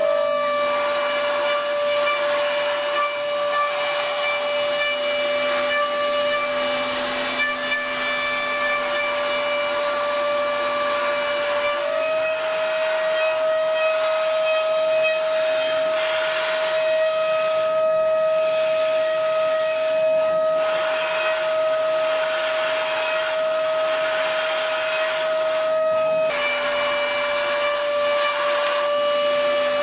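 CNC machine spindle running with a steady high whine over a rough cutting noise; the whine steps up slightly in pitch about twelve seconds in and drops back a few seconds before the end.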